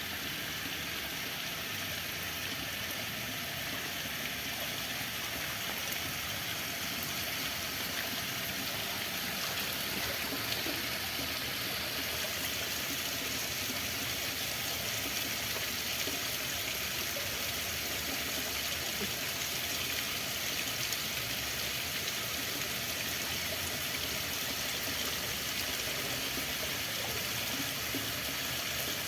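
Running water flowing steadily, an even rushing sound without breaks.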